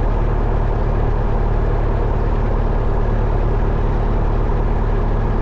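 1972 Cessna Skyhawk's four-cylinder Lycoming O-320 engine and propeller idling steadily on the ground, holding short of the runway.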